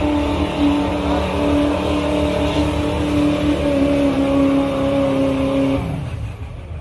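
Diesel truck engine held at high revs under full load pulling a sled, a loud steady note. About six seconds in it drops off with a falling pitch as the throttle is let go.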